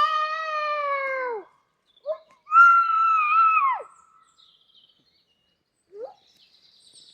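An animal calling: two long, drawn-out pitched cries, the second one higher, each falling away at the end, with a few short squeaks between them and faint bird twittering near the end.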